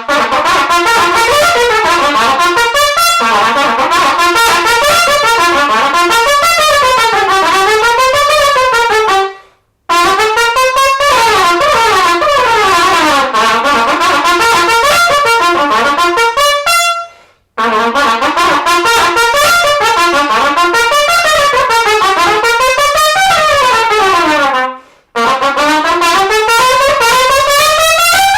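Solo trumpet playing fast runs that sweep up and down across the range, in three long, loud phrases with a short break for breath between each.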